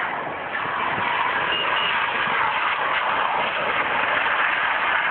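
Vehicle driving in heavy rain: a steady hiss of rain and wet-road tyre noise.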